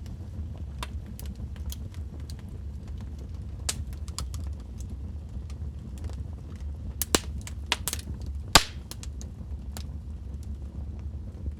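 Wood fire in a fireplace, burning logs crackling and popping over a steady low rumble of the flames. A cluster of sharper pops comes about two-thirds of the way through, the loudest a single crack near the end of that cluster.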